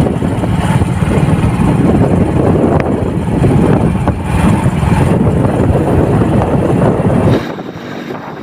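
Motorcycle running on the move, with wind blowing over the microphone. The noise cuts off suddenly about seven seconds in, and a quieter sound follows.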